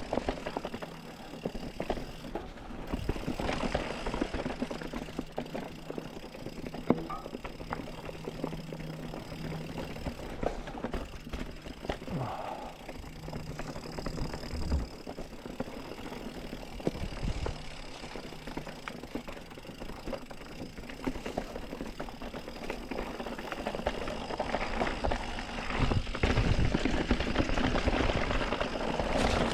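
Mountain bike being ridden along singletrack: steady tyre noise over dirt and rock with frequent clicks and rattles from the bike, louder near the end.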